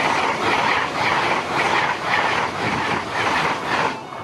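Hitachi-built LNER Azuma high-speed train passing close by at speed: a steady rush of wheel and rail noise with a regular clickety-clack beat, about two and a half a second. It drops away suddenly near the end.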